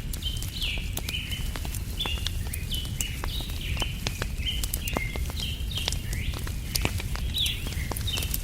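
Campfire crackling with frequent sharp pops, while small birds chirp in a steady run of short, quick notes over a low rumble.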